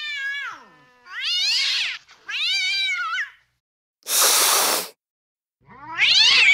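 Angry domestic cat yowling: a drawn-out call trailing away, then two rising-and-falling yowls in quick succession, a short hiss about four seconds in, and another loud yowl starting near the end.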